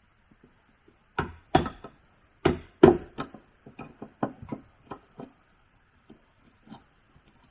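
Wood being struck with a tool during stair building. Four hard chops or knocks come in about the first three seconds, then a quicker run of lighter taps, and two more single knocks near the end. A faint steady hiss runs underneath.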